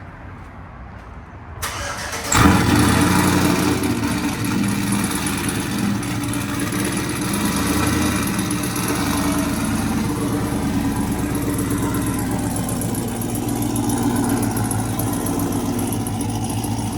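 Cammed 5.3-litre V8 in a Chevy Tahoe cranked and firing up through new long-tube headers and a Corsa Pro muffler. It catches with a loud burst about two seconds in, then settles into a steady idle.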